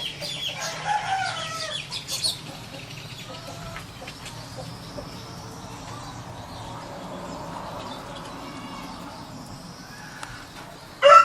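Domestic chickens: short clucking calls in the first couple of seconds, then a quieter steady background, and a rooster starts crowing loudly near the end.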